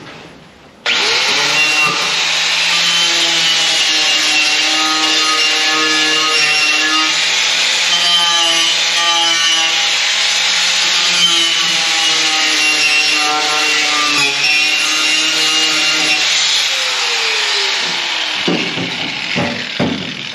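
Handheld power grinding tool starts suddenly about a second in and runs against the rusty sheet metal of a pickup cab, its pitch wavering as it bears on the metal. It winds down with a falling pitch near the end.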